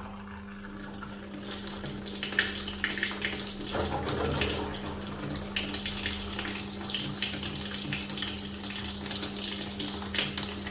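Water rushing into a washing machine through its inlet as it fills, a steady hiss that builds up about a second in, with a steady hum underneath. The flow is strong now that the clogged inlet filter screen has been cleaned.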